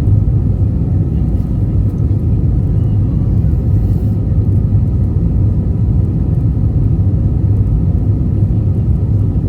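Steady low rumble of an Airbus A320neo's cabin, with the CFM LEAP-1A engines and airflow heard from a window seat inside the cabin.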